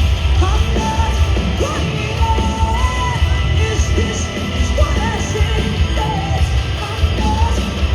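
Loud live hard rock band playing, with yelled vocals over a heavy, dense low end.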